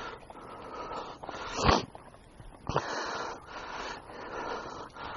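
A hiker breathing hard in a string of heavy breaths, about one a second, close to the camera's microphone, with one sharp knock about a second and a half in.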